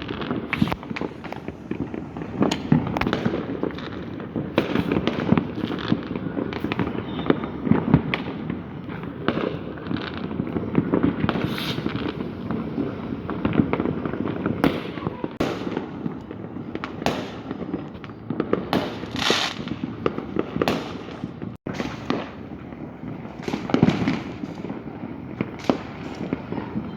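Fireworks and firecrackers going off in a dense, continuous barrage: many overlapping bangs and crackles with no let-up, broken only by a momentary dropout about two-thirds of the way through.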